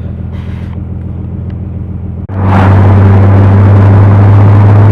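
Car engine and road noise while driving, a steady low drone. About two seconds in it becomes much louder and stays at one steady pitch, as from a heavier engine drone close to the microphone.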